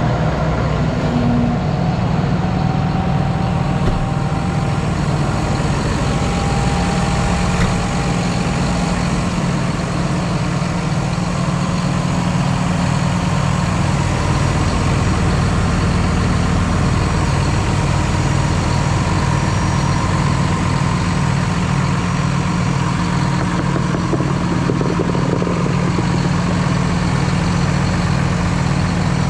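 John Deere tractor diesel engine idling steadily with an even low pulse.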